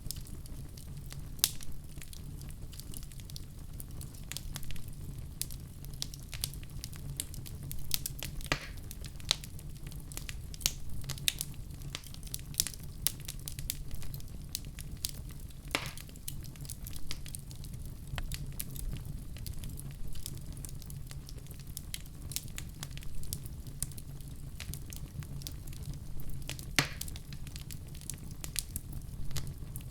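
Wood fire crackling steadily over a low rumble of flames, with scattered sharper pops; the loudest come about 8, 16 and 27 seconds in.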